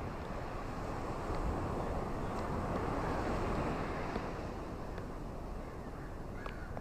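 Ocean waves washing onto a beach: a continuous rush of surf that swells about a second and a half in and eases off near the end.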